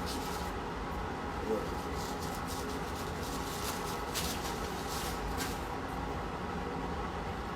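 Steady low hum of a restaurant dining room, with a few short clicks scattered through it, typical of cutlery and eating at the table.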